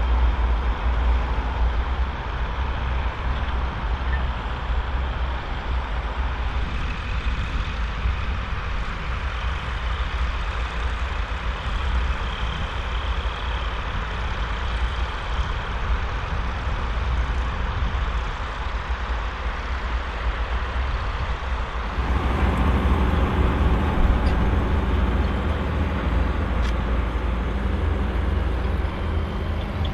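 Volvo BM 2654 tractor's diesel engine running steadily under load while pulling a five-furrow plough. About two-thirds of the way through, the sound changes abruptly to a fuller, lower rumble.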